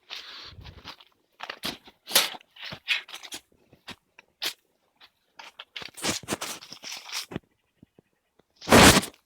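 Irregular crunching and clicking of greenhouse materials being handled during repair work, with one loud knock near the end.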